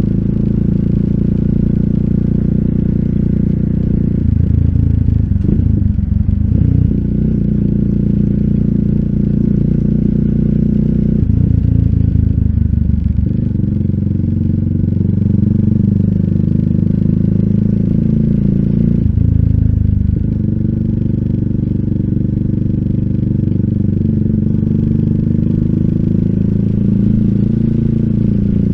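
Exhaust note of a RUSI Classic 250Fi's single-cylinder engine while riding, heard through an Eli's Muffler full exhaust with a slip-on bullet pipe and dB killer. The engine note shifts in pitch three times with throttle and speed changes.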